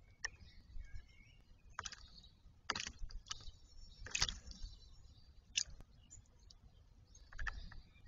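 Faint bird chirps in the first second, then about half a dozen sharp taps and clicks scattered irregularly.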